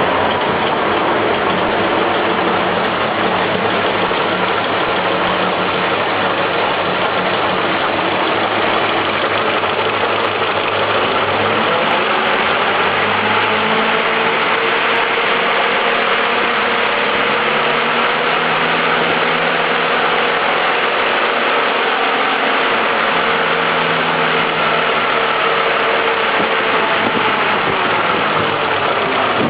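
GAZ-67's four-cylinder side-valve engine running steadily at about idle, its speed drifting slightly now and then.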